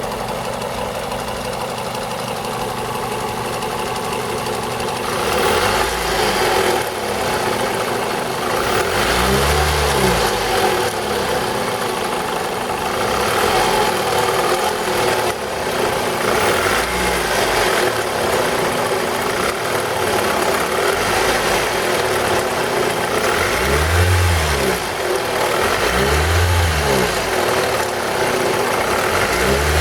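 A 2002 Toyota RAV4 engine idling with a knock. It is revved briefly several times, rising and falling back to idle. The owner asks whether the knock comes from the VVT-i camshaft coupling.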